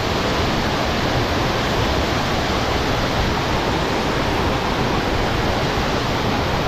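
Waterfall: a loud, steady rush of falling water, close by.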